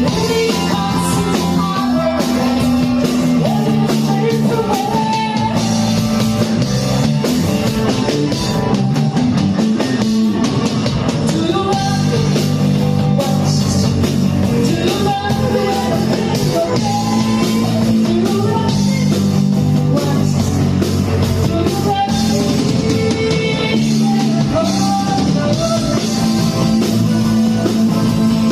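Rock band playing, with electric guitar, drum kit and singing.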